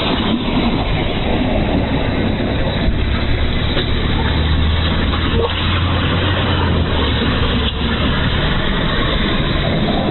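A snow-clearing machine's engine running steadily with a constant rushing noise; a deep low hum swells for a few seconds in the middle.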